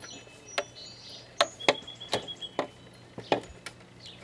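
Irregular sharp clicks and knocks, about eight in four seconds, from hand tools working on a lawn mower engine as it is unbolted. Birds chirp in the background.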